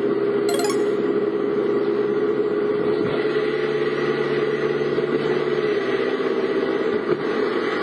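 A vehicle's engine running steadily with road noise, holding an even pitch throughout.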